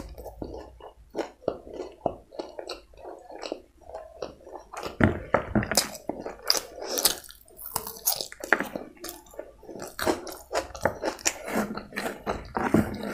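Close-up chewing of a crisp fried chicken lollipop: wet mouth sounds with irregular crunches, louder and busier from about five seconds in.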